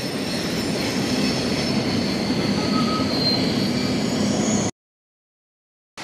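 A train passing close by: a steady rumble of wheels on the rails with a faint high squeal, which cuts off suddenly about three-quarters of the way through.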